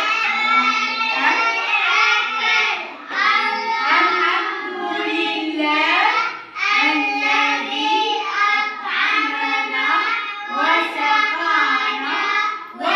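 A child chanting a short Arabic prayer in a sing-song voice, typical of the supplication said after eating, in four phrases with brief breaths between them.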